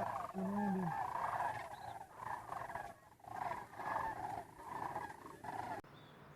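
A series of pitched animal calls, repeated with short gaps, cutting off abruptly near the end.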